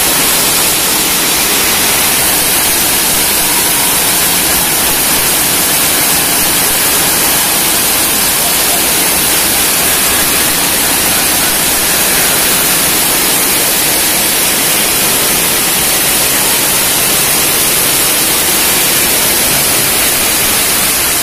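Rain pouring steadily onto a wet concrete yard and its puddles: a loud, even hiss that does not let up.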